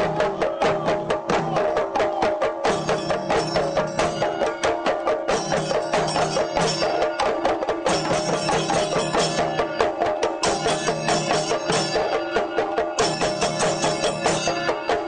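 Traditional percussion music: a fast, even beat of sharp drum or wood-block strokes, about five or six a second, over a steady held tone, with bright metallic cymbal-like accents coming and going.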